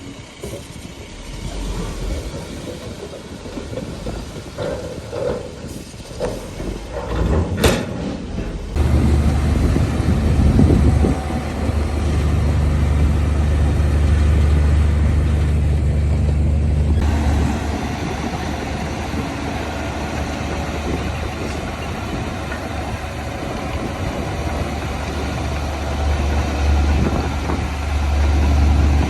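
Heavy diesel engine of earthmoving machinery running. It is quieter for the first eight seconds or so, with a sharp knock near the end of that stretch. From about nine seconds in it becomes a loud, steady, low-pitched drone.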